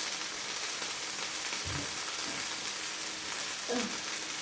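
Whole quail frying in hot oil in a full pan, a steady sizzle.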